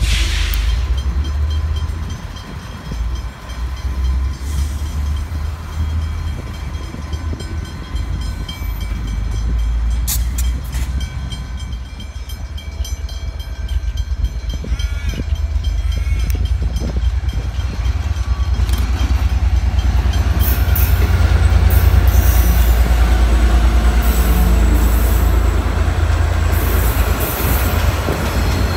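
Diesel locomotives running past with a steady heavy rumble, first Pacific National NR-class freight units. From about twenty seconds in, a diesel-hauled passenger train comes close, its engine and wheels on the rails growing louder and peaking a couple of seconds later.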